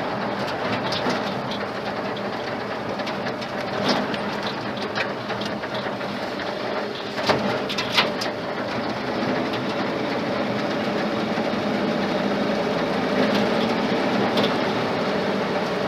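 Ford flathead engine in an old truck running steadily, with a few short clicks or knocks over it.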